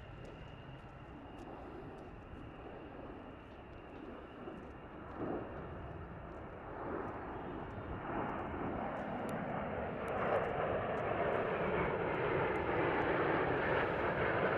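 Airplane engine noise growing steadily louder as the aircraft approaches.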